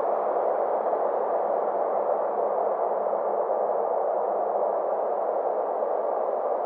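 Synthesized 'space sound' ambient drone: a steady, muffled rushing noise with a faint low hum and slowly shifting high overtones, never changing in loudness.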